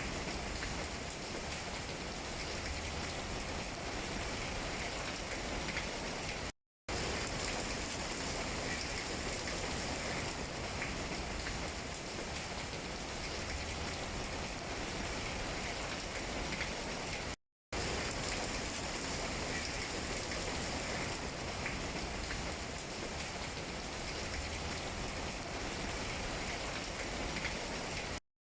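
Steady rain falling on tree leaves, an even hiss of many drops. It cuts out to silence for a split second three times, about eleven seconds apart.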